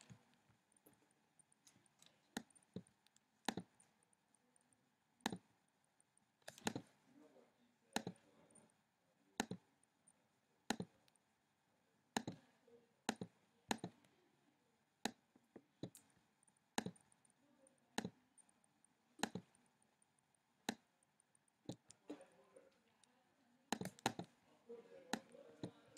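Computer mouse clicking: single sharp clicks about every one to one and a half seconds, with a few quick doubles, as menus and colour settings are picked in software.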